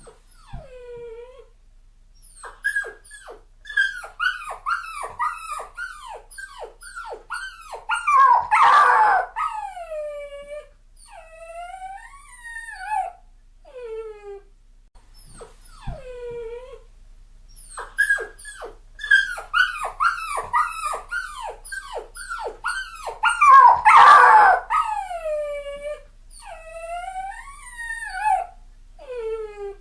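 A puppy whimpering and crying: quick runs of short, high yelps that fall in pitch, building to a louder, harsher cry, then longer falling whines. The same sequence plays twice, the second starting about halfway through.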